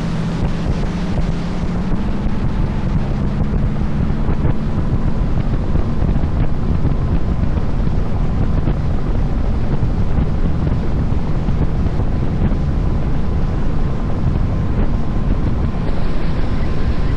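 Boat engine running under way, mixed with water rushing past the hull and heavy wind buffeting the microphone in a steady, dense rumble.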